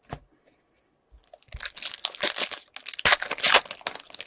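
Trading-card pack wrapper crinkling and tearing, in two bursts of crackling from about a second and a half in, with a few sharp clicks near the end.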